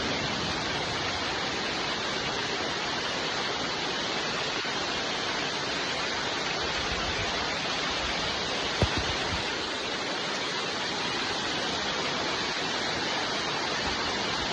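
Steady rain falling, an even hiss of many drops, with a single sharp tap about two thirds of the way through.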